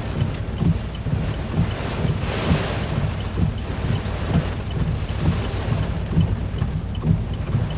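Hurricane wind buffeting the microphone in irregular gusts, with a stronger rushing gust about two seconds in.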